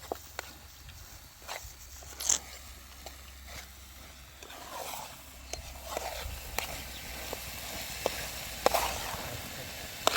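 Irregular clicks, knocks and scrapes of things being handled, coming more often in the second half, over a faint low steady hum.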